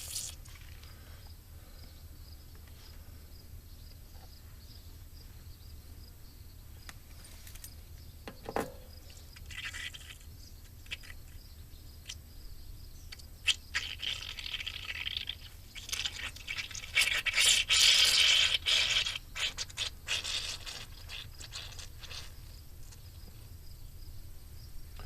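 Air let out of a tractor tire's inner-tube valve stem in short hissing bursts, bringing the pressure down toward the tire's 16 psi maximum, with a few clicks of handling between them.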